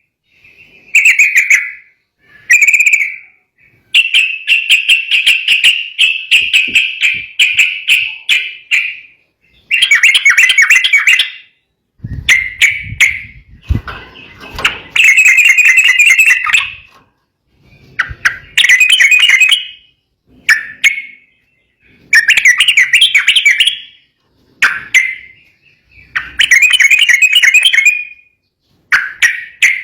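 Yellow-vented bulbul (trucukan) singing loud, bubbly, chattering phrases of one to three seconds each, repeated with short pauses between them.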